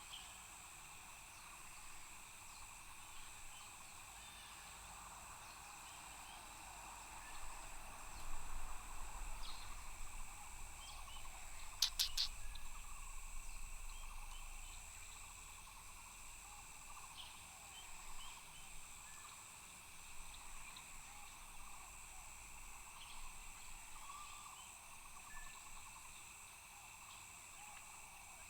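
Insects trilling steadily at several high pitches, with scattered short chirps. A low rumble swells and fades midway, and a few sharp clicks come near the middle.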